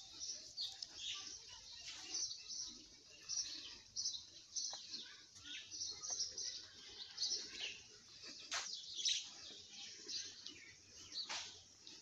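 Small birds chirping and twittering, many short high calls overlapping throughout, with a few sharp clicks standing out near the end.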